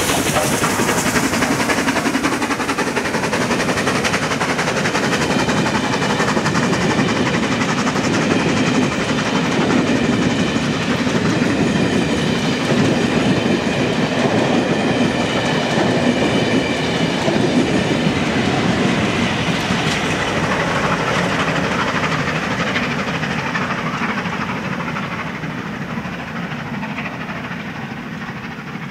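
Steam-hauled passenger train passing close by, the coaches' wheels running loud and steady on the rails, then fading over the last few seconds as the train moves away.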